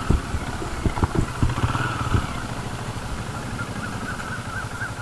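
Benelli Imperial 400's single-cylinder engine running steadily under the rider, with several sharp knocks and clatter in the first two seconds.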